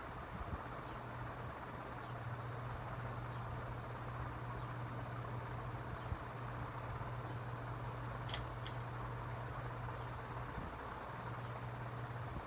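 Ceiling fans running steadily: a constant motor hum under an even rush of moving air. Two short, sharp ticks come about two-thirds of the way through.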